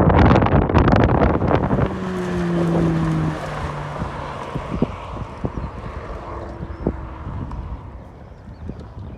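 Wind buffeting the microphone outdoors, heavy at first and easing off after about two seconds. A brief low steady hum sounds around two to three seconds in, and a few sharp knocks follow.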